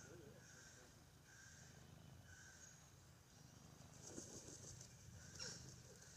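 Faint bird calls playing from a TV, repeating about once a second over a low steady hum.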